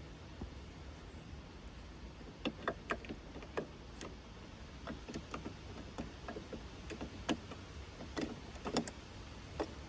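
Irregular light clicks and clanks of metal parts and hand tools being handled, starting about two seconds in, over a steady low rumble.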